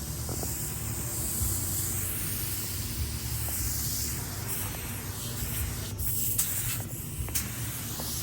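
Aerosol spray-paint can spraying parts in long hissing passes that swell and fade, broken by a few short pauses in the last couple of seconds.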